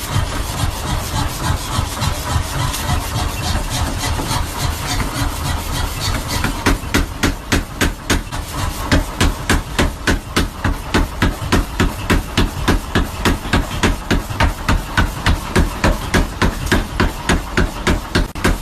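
Power hammer forging a Damascus steel billet: rapid, evenly spaced blows, about three a second, over the steady running noise of the machine. The blows turn sharper and louder about six seconds in.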